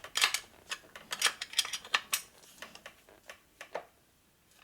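Irregular metallic clicks and clinks of tools and small parts being handled while a part is fitted onto a motorcycle, dying away about four seconds in.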